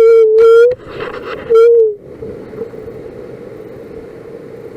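A loud, steady motor drone that breaks off for a moment about a second in, then dips slightly in pitch and stops at about two seconds, leaving a steady rush of wind.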